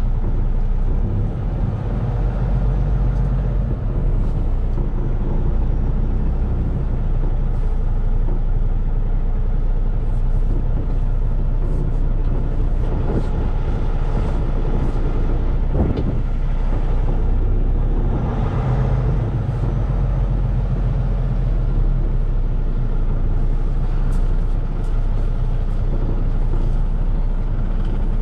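Semi-truck running down the road: a steady engine drone with road and tyre noise, and a few faint clicks and rattles.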